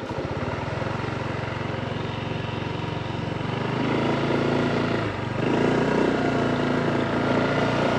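Honda Click 160 scooter's single-cylinder engine with a slow, even pulse at idle, then pulling away and running steadily. Its pitch and loudness climb about four seconds in, drop briefly just past halfway as the throttle eases, then pick up again.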